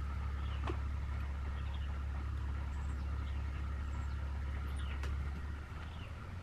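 Steady low hum of a running motor, changing and dropping in level a little before the end, with a few faint high chirps above it.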